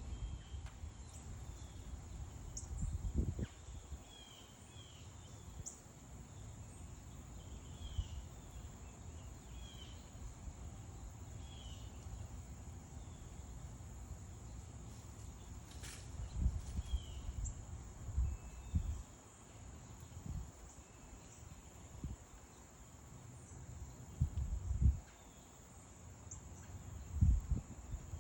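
Small birds calling in short, scattered chirps over a steady high-pitched insect drone. Several low rumbling surges come and go, the loudest at about 3, 16, 25 and 27 seconds in.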